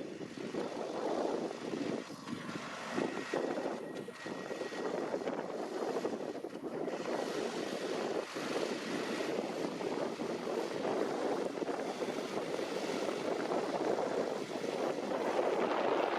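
Tractor and potato-harvesting machinery working in the field, a steady noisy rumble.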